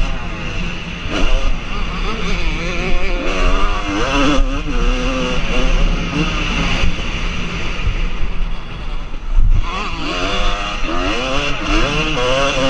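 Motocross bikes running on the track, the engine note rising and falling over and over as the riders open and close the throttle.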